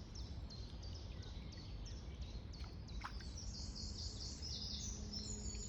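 Small songbirds singing: a quick run of short, high chirping notes over a low, steady rumble.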